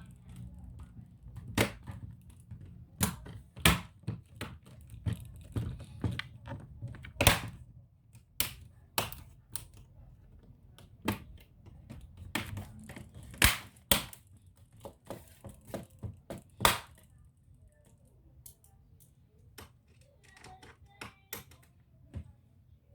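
Irregular sharp clicks and taps of hard plastic and metal laptop parts and tools being handled during disassembly. They come about once a second and thin out near the end.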